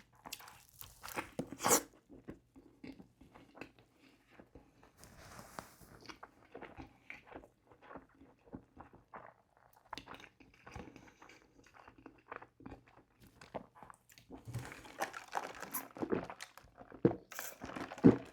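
A person eating McDonald's food: steady chewing with a run of short crunching bites, louder about a second in and again over the last few seconds.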